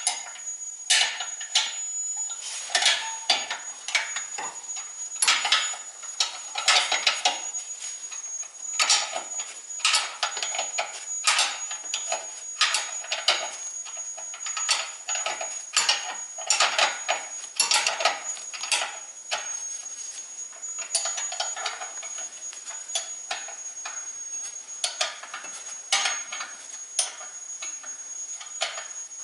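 Hand tools knocking and clinking on metal, irregular and uneven, with a faint steady high-pitched whine underneath.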